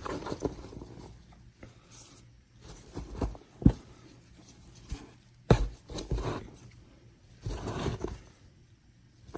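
Rummaging through the bedding of a small plastic worm bin: rustling and scraping, with a few sharp knocks as the light bin shifts about.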